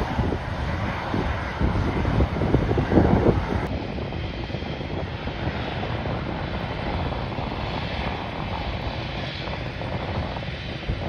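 Aircraft engines running steadily as an airliner passes, with gusting wind buffeting the microphone.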